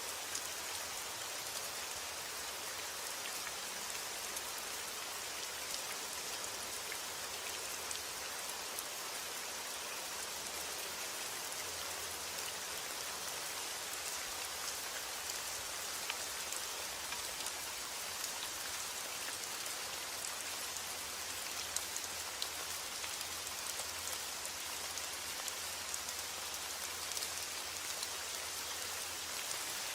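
Steady rain falling, a continuous hiss with fine scattered drop ticks and no thunder.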